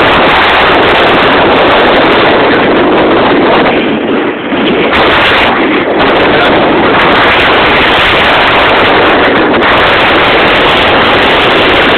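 Blizzard wind of 35-plus mph blowing hard across the camera's microphone, a loud, steady rushing noise that eases briefly about four seconds in.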